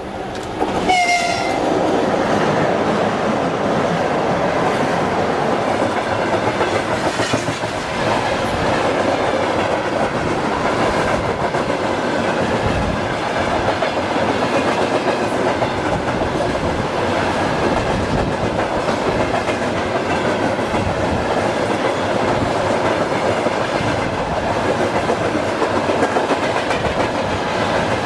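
Freight train passing: the locomotive's horn gives one short blast about a second in, its pitch dropping slightly, then the wagons run by with a steady, loud clatter of wheels on the rails.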